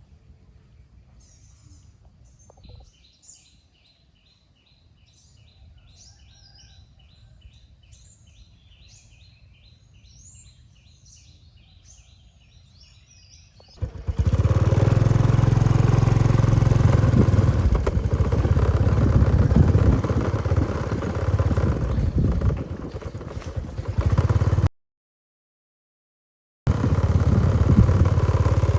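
A bird calls with a fast run of repeated chirps over quiet jungle ambience. About halfway through, this gives way abruptly to a loud motorbike riding along a bumpy dirt track, broken by about two seconds of total silence near the end.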